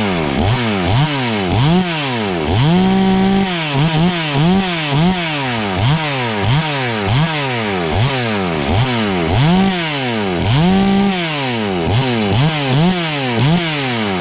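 72cc two-stroke chainsaw engine (FarmMac F380W) revved over and over with quick throttle blips, each rising to a scream and falling back about one and a half times a second, twice held briefly at full throttle, then dropping to idle at the end. These are test revs while the carburetor's mixture is being tuned.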